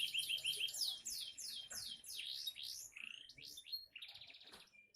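Canary singing a fast, varied song of repeated falling whistled notes and quick trills, with a rapid rattling trill near the end before it stops.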